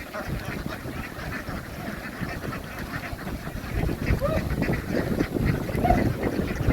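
A large flock of domestic ducks quacking all at once in a dense, overlapping chatter, with a low rumble growing underneath from about halfway through.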